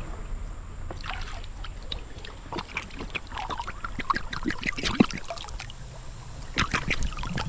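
Water splashing and trickling, with many short, irregular splashes.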